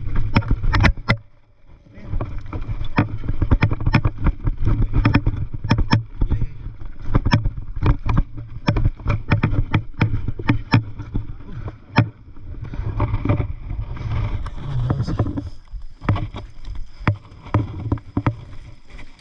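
Mountain bike riding over rough trail: dense irregular knocks and rattles from the bike and camera mount over bumps, over a steady low rumble of wind on the microphone. The rumble drops out briefly about a second in.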